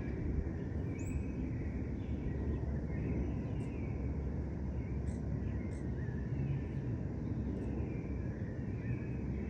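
Birds calling in short, falling chirps, with a few brief high notes, over a steady low rumble of distant city traffic.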